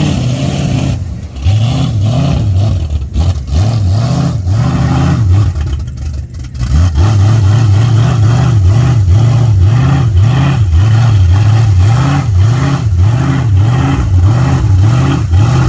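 Mega mud truck's engine running under way, its pitch rising and falling over and over, with a brief drop in level about six seconds in before it picks up again.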